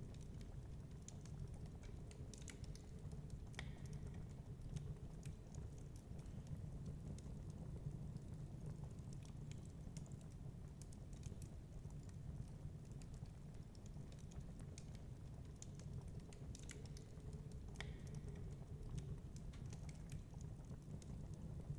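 Wood fire crackling with irregular sharp pops, a couple of them louder, over a steady low rumble of storm wind.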